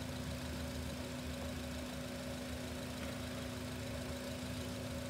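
Car engine idling steadily, a low rumble with a steady hum over it. The car has an abrupt, infrequent stall fault.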